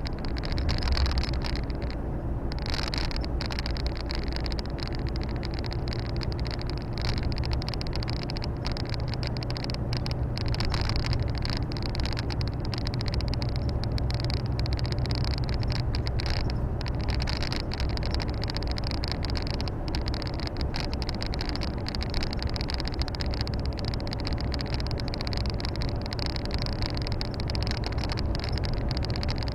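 Volvo FH 460 truck's 13-litre six-cylinder diesel engine and road noise heard from inside the cab while driving: a steady low drone under an even rushing noise.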